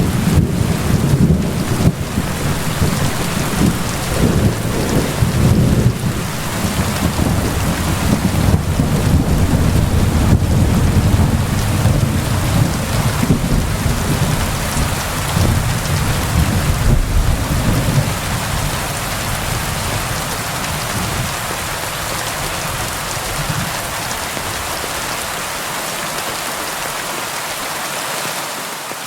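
Steady heavy rain hissing against window glass, with a long rolling rumble of thunder underneath that fades away over the second half.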